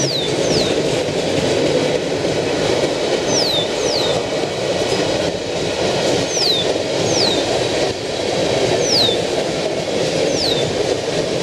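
Freight train of tank cars rolling past at speed: a steady rumble of wheels on rail. Short, high, falling whistles come over it, singly or in pairs, every few seconds.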